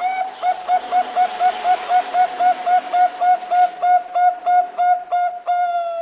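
Zebra dove (Bangkok perkutut) cooing: a fast run of short, evenly spaced coos, about four a second, ending in one longer drawn-out note.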